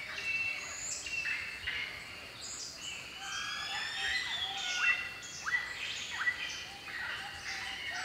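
Several birds calling over one another: many short chirps and whistles, with some long gliding whistles and quick sweeping calls around the middle.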